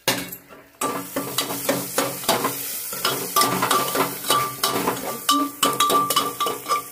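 A steel ladle stirs ground spices into sliced onions frying in oil in an aluminium pressure cooker. There is a steady sizzle from about a second in, with repeated scrapes and clinks of the ladle against the pot, as the masala is roasted in the oil.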